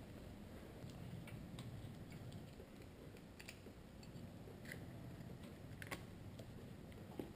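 Faint, scattered light clicks and taps, about half a dozen spread over several seconds, from handling and fitting a car headlight assembly, over a low steady hum.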